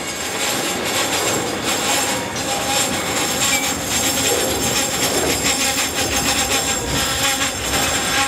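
Freight train boxcars rolling past on the near track: steady, rhythmic clatter of steel wheels over the rails and rail joints, with rattling from the cars.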